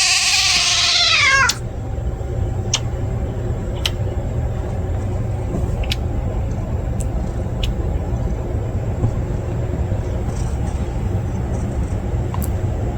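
A cat's long, wavering yowl that cuts off suddenly about a second and a half in, followed by a steady low rumble with a few faint clicks.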